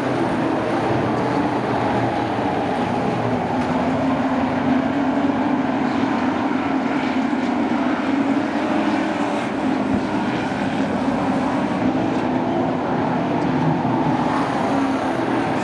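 The engines of a field of short-track sport trucks running around the oval, a steady combined drone whose pitch rises and falls gently as they circle.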